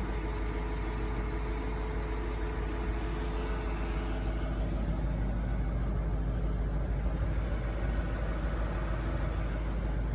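2004 Audi S4's 4.2-litre V8 idling steadily at full operating temperature, with no cooling-fan noise.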